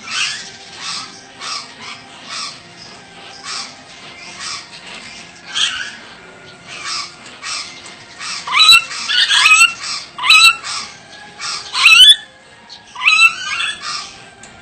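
Ornate lorikeet calling: a run of short chattering calls, then several loud, harsh squawks that rise in pitch in the second half.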